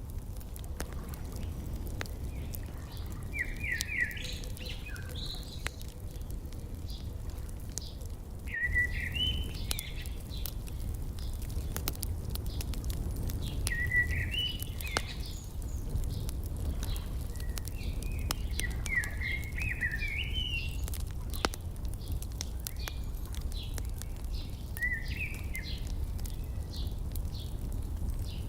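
A songbird singing short warbling phrases every few seconds, over the steady snapping and popping of a wood fire, with a low steady rumble underneath.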